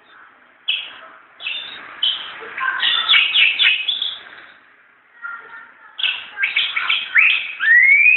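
A white-eye singing in two bursts of quick, high chirps and trills with a short pause between, the second burst ending in a rising whistle.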